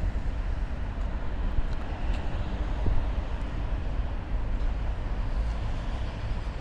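Steady low rumble of outdoor street noise, like passing traffic, with no distinct events.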